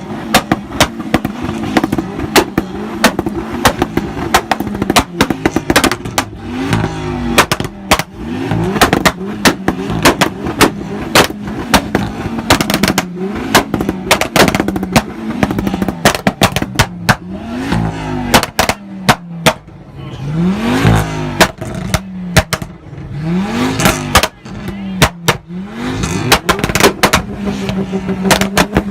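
A car engine being revved again and again, each blip rising and falling back to a steady idle, with many rapid sharp pops and crackles throughout.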